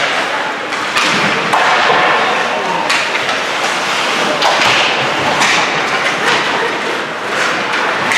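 Ice hockey rink sounds during play: a steady rush of skate and rink noise that swells and fades, broken by several sharp knocks of sticks, puck or players against the boards.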